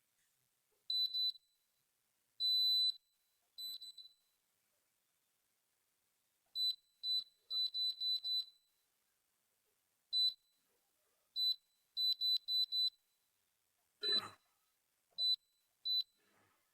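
Sunhouse evaporative air cooler's control panel beeping: short high electronic beeps in irregular groups, one held a little longer, as its buttons are worked, a sign the repaired unit has power and responds. A single knock about fourteen seconds in.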